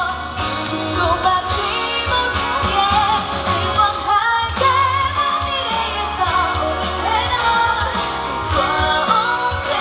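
Live pop music: a female singer's amplified vocal with gliding sustained notes over band accompaniment with a steady bass line and drums.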